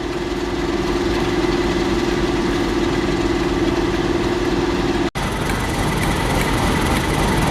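Large vehicle's diesel engine idling with a steady hum. About five seconds in, it cuts off abruptly to a different, noisier engine sound.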